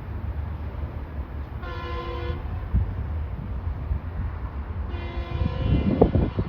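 Passenger train's air horn sounding twice: a short blast about a second and a half in, then a longer one starting near the end, over the steady low rumble of the train running past. Loud knocks of the passing train come with the second blast.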